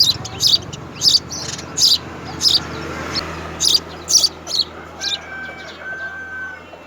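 Baby birds in a nest chirping: a string of short, high chirps at about two a second.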